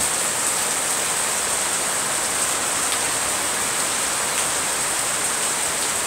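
Rain falling steadily on garden plants and a wet tiled patio: an even, unbroken hiss.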